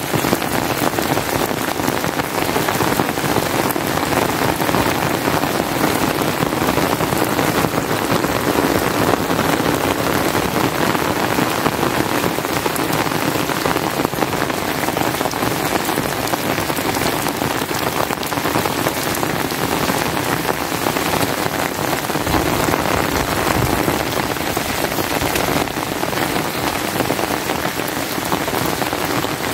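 Rain falling steadily, a dense even patter of drops close to the microphone, unchanging throughout.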